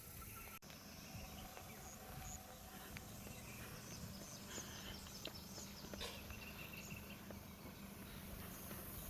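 Faint outdoor ambience: scattered short bird chirps and insect sounds over a steady low background hum, with an abrupt break about half a second in.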